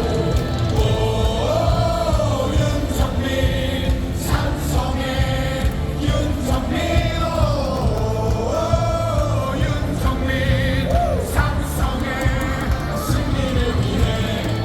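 Stadium crowd singing a baseball cheer song in unison over loud amplified music with a steady beat.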